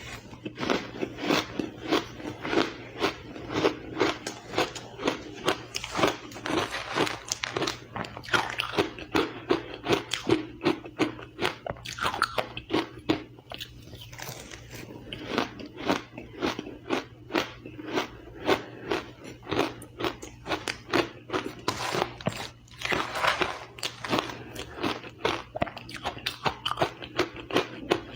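Close-up crunching and chewing of powdery crushed ice, a rapid run of crisp crunches that goes on without pause.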